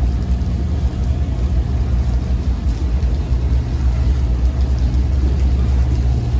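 CSX GE Evolution-series diesel-electric locomotives running, a steady low engine rumble with a deep hum.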